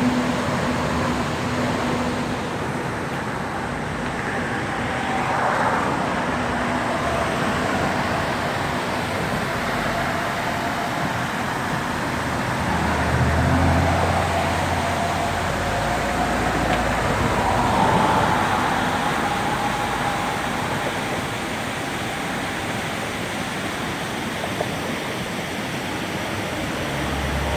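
Steady road traffic noise, with vehicles passing now and then.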